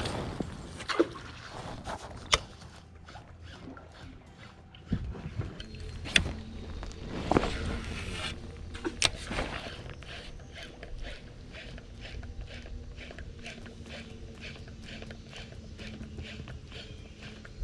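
Kayak on a river, with scattered knocks against the hull and water sounds. In the second half comes a rapid, even ticking, about three ticks a second.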